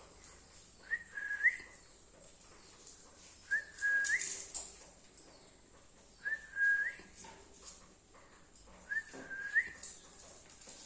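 Pet lovebirds: a clear whistled phrase, a short upward note, a held tone and a quick rising slur, repeated four times about every two and a half seconds, over faint high chirping.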